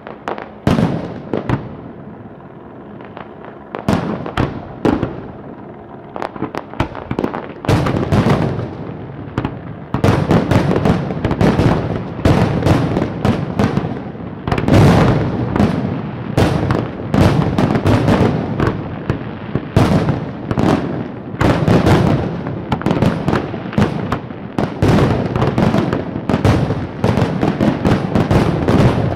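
A fireworks display: scattered bangs and crackles for the first ten seconds or so, then a dense, continuous barrage of bangs and crackling.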